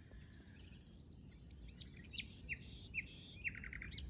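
Common nightingale singing: a varied phrase of sharp, quickly falling whistled notes, then a fast run of repeated notes near the end. A steady low rumble of wind on the microphone lies under it.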